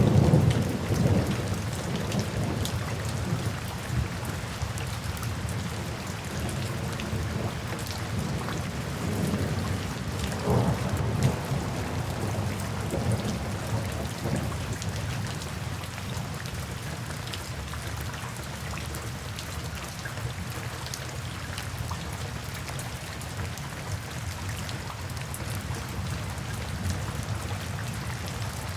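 Steady rain falling, with low thunder rumbling loudest right at the start, swelling again about ten seconds in, then dying away to rain alone.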